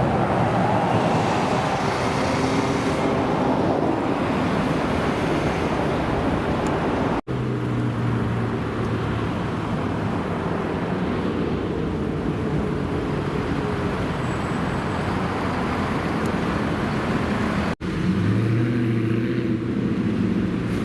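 American car engines running in three back-to-back clips, split by abrupt cuts about seven seconds in and again near the end. The engine note sinks in pitch over the first few seconds, then holds fairly steady.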